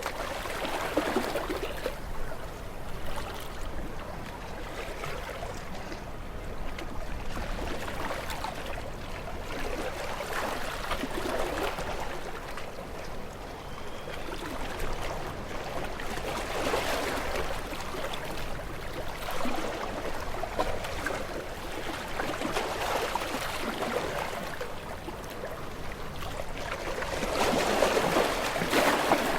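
Running water of a stream, a steady trickling, gurgling wash that swells and eases in level every few seconds.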